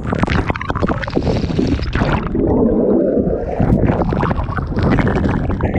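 Loud, steady roar of a waterfall heard close up, with its spray and wind buffeting the microphone in uneven rumbling gusts.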